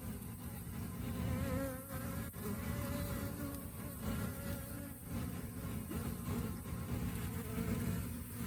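Many honey bees buzzing together: a dense, steady low hum with fainter tones wavering up and down in pitch above it.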